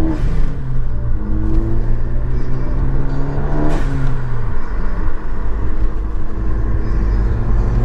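Ford Focus ST's engine accelerating through the gears, rising in pitch and dropping back at gearshifts near the start and about four seconds in, over a steady low rumble.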